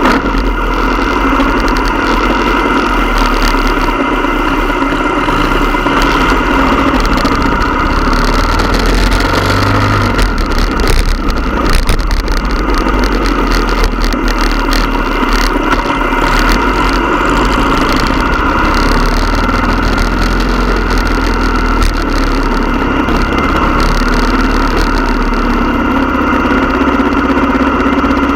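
Motorcycle engine running steadily and loudly, its note holding with little change, a little busier and louder around ten to twelve seconds in.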